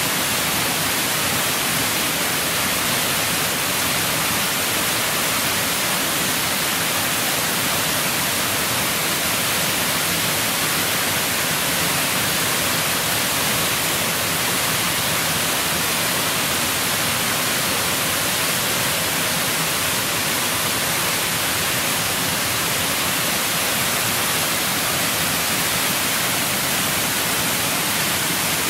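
Waterfall cascade rushing: a steady, unbroken hiss-like roar of falling water.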